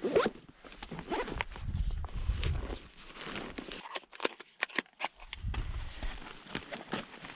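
Footsteps and rustling through forest undergrowth, with many irregular sharp snaps and crackles of twigs and brush underfoot.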